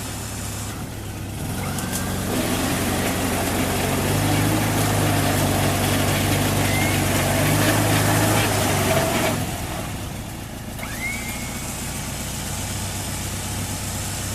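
Off-road vehicle engine running, then revving up about two seconds in and holding at higher revs for about seven seconds before dropping back to idle.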